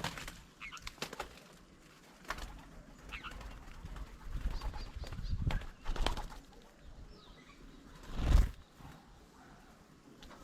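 Birds flapping their wings at a feeding table in a series of short bursts, the loudest about eight seconds in, with faint bird calls between them.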